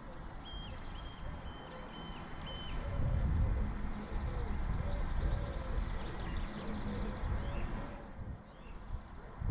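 Outdoor birdsong: four short high calls in the first few seconds, then lower wavering calls and faint chirps, over a steady low rumble that grows louder about three seconds in.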